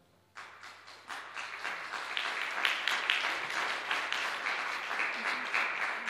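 Audience applauding after a musical number ends: scattered claps about half a second in quickly swell into full, steady applause in a large hall, thinning out near the end.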